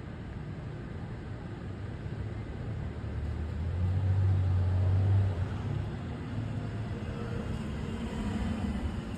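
A motor vehicle passing close by on a city street, its low engine rumble swelling to a peak about four to five seconds in and then dropping away, over steady traffic noise.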